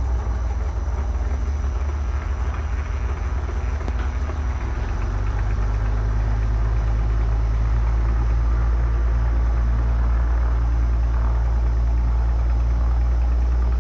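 Stinson light aircraft's piston engine running steadily on the ground after its run-up, a deep even drone that gets slightly louder about five seconds in.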